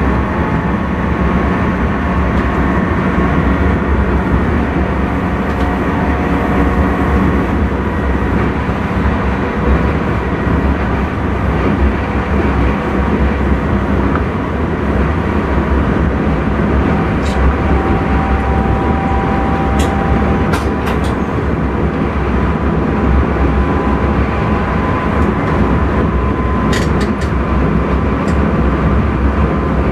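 Intercity train running at speed, heard from inside the driver's cab: a steady low rumble and rolling noise with a faint steady whine. Several sharp ticks come in the second half.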